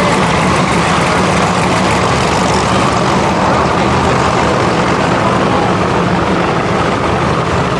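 Drag car engine idling, loud and steady.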